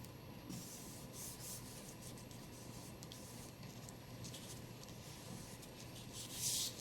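Soft rubbing and rustling of craft paper being handled and pressed down, in several short strokes, the loudest near the end.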